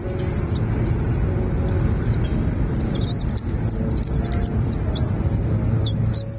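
Small birds chirping in short, scattered high notes over a steady low rumble.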